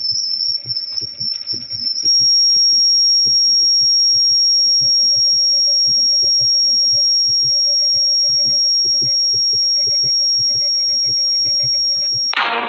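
A steady high-pitched electronic whine that steps up slightly about two seconds in, with a fainter low hum and quick irregular faint ticking underneath.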